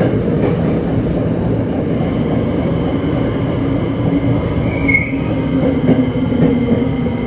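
Tokyo Metro 7000-series car running through a subway tunnel, heard from inside the car: steady rumble of wheels and rails. About two and a half seconds in, the Hitachi IGBT-VVVF traction inverter's low whine comes in, and near the five-second mark there is a brief high wheel squeal.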